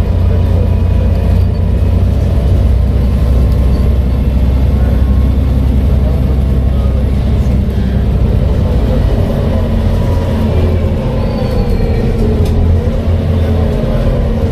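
Volvo B7TL bus's six-cylinder diesel engine running with a steady low drone, which eases a little about ten seconds in.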